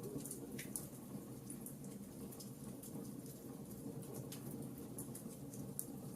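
Wood fire crackling with frequent irregular pops and snaps over a steady low rush of rain.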